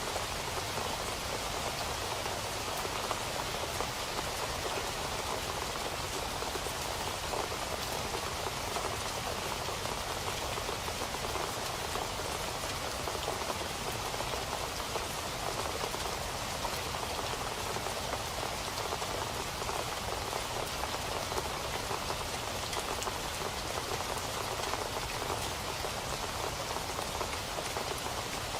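Steady rain falling on a surface, an even patter of many drops with no let-up.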